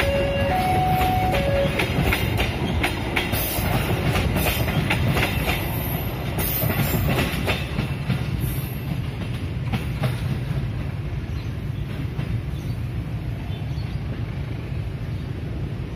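Passenger train coaches rolling past on the track, their wheels clicking over the rail joints; the clicks thin out and the rumble fades a little as the last coach draws away.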